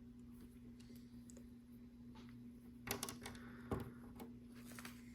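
Faint clicks and rattles of small plastic LEGO pieces being handled, with a cluster of clicks about three seconds in and a single knock shortly after.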